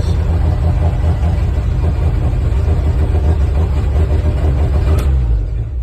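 1960 International B130 truck engine running just after a cold first start, still on full choke, with a steady low rumble. About five seconds in there is a click and the engine gets quieter.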